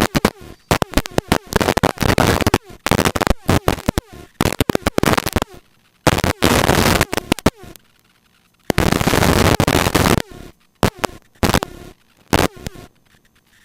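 Cockpit noise heard through the helicopter's headset intercom, a harsh hiss cutting in and out abruptly in short bursts, with a longer quiet gap around eight seconds in.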